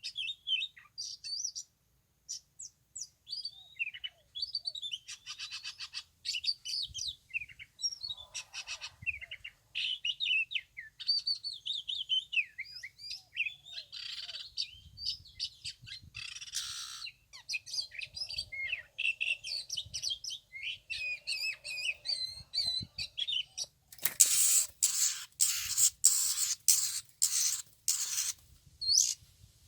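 Oriental magpie-robin singing: a long run of varied, quick whistled phrases. Near the end comes a series of about eight loud, harsh rasping bursts.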